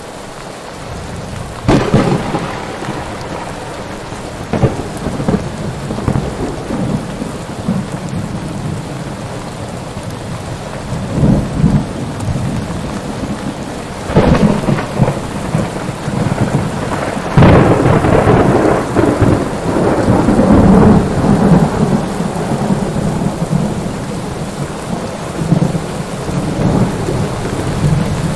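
Thunderstorm: steady heavy rain with claps of thunder, sharp cracks about two seconds in, around the middle and a little later, the last followed by several seconds of rolling rumble.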